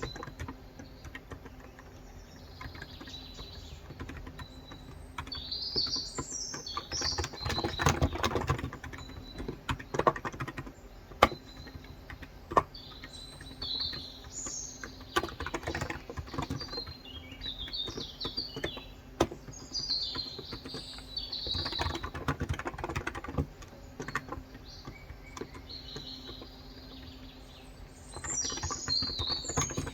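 Typing in bursts on a Cox Endeavor electro-capacitive (Topre-style) keyboard with 35 g switches, rapid soft key clicks. Birds chirp in short high calls throughout.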